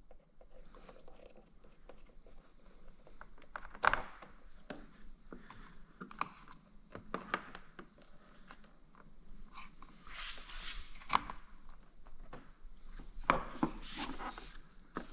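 Hands-on work with parts and tools: scattered clicks and knocks, a sharp knock about four seconds in, and bursts of rustling near ten and fourteen seconds.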